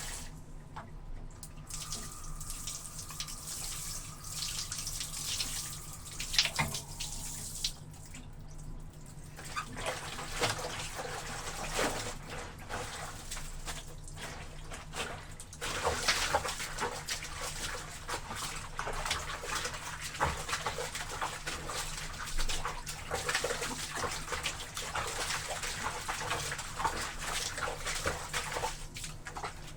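Laundry being washed in a tub of water: irregular sloshing and splashing, busier and louder from about halfway through.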